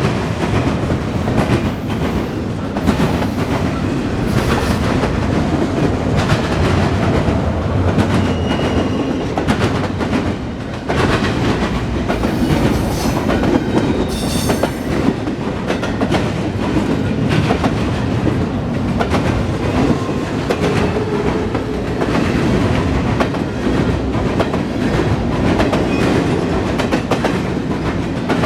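Norfolk Southern intermodal freight train rolling past close by: a steady loud rumble of cars with a continuous clickety-clack of wheels over rail joints, and a brief high squeal about halfway through.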